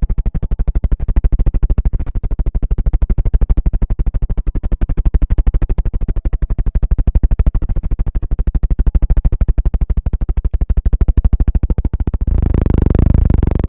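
A fast, even run of close-miked clicks, many per second and heavy in the bass, changing about twelve seconds in to a denser rubbing, scratching sound.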